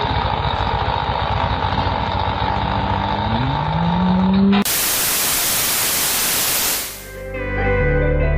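A low, pulsing, engine-like rumble with a tone rising in pitch, cut off suddenly about four and a half seconds in by a loud burst of white-noise static that lasts about two seconds. Plucked guitar-like music begins near the end.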